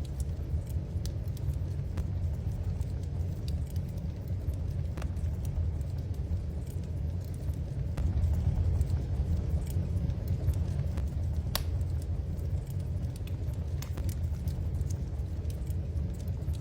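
Wood fire crackling in a fireplace: scattered sharp pops and snaps, one louder about eleven seconds in, over a steady low rumble.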